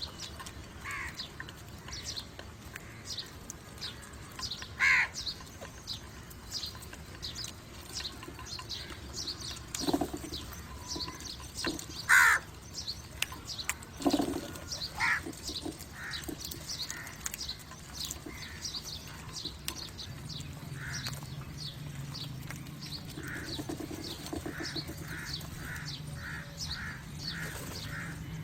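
Crows cawing: a few loud single caws near the middle, then a quick run of short caws, about two a second, near the end. Small birds chirp constantly in the background.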